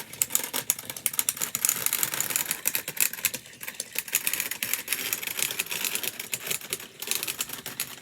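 Two battery-powered toy train engines straining against each other in a pulling contest, their motors and wheels making a fast, continuous clicking and rattling on the track.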